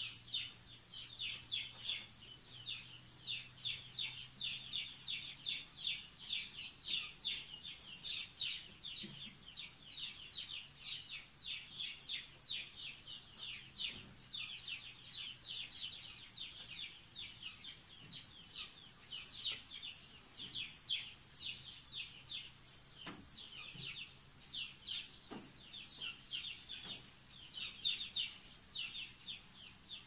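A bird calling over and over in quick, short chirps that each fall in pitch, about two or three a second, over a steady high-pitched drone.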